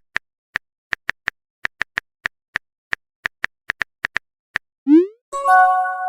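Phone keyboard tap clicks, many quick and irregular, as a text message is typed. About five seconds in, a short rising swoosh of the message being sent, followed by a chiming message notification tone near the end.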